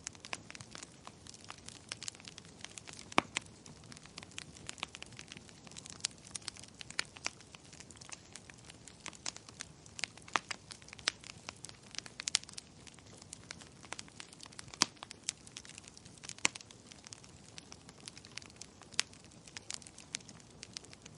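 Fireplace fire crackling: irregular sharp pops and snaps, a few much louder than the rest, over a soft steady hiss.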